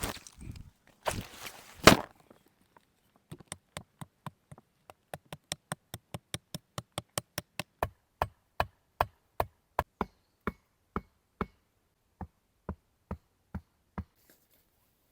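Rustling and scraping for about two seconds, ending in a loud crack. Then a steady run of about thirty sharp knocks from a hand tool striking repeatedly, roughly three a second, spacing out toward the end.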